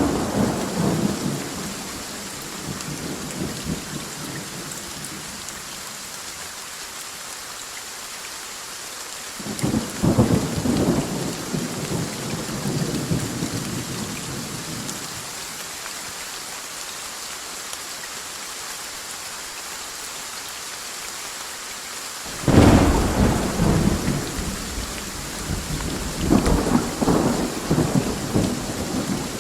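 Thunderstorm: steady heavy rain with rolls of thunder, one just at the start, another about ten seconds in, and two more near the end, the first of those the loudest and sharpest.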